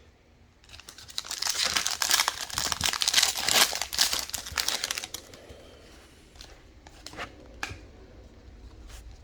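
Trading card pack wrapper being torn open and crinkled for about four seconds, followed by a few light clicks and taps as the cards are handled.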